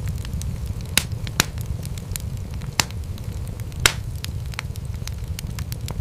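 Wood fire crackling in a fireplace: a steady low rumble of burning with many small crackles and a few sharper pops, the loudest about 1, 1.5, 3 and 4 seconds in.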